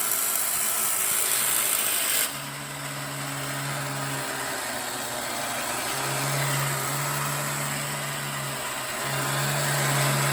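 Mechanism of a 1959 Yonezawa tin toy airplane running with a steady whir and rattle, its tone changing about two seconds in. A low hum cuts in and out three times over the running mechanism.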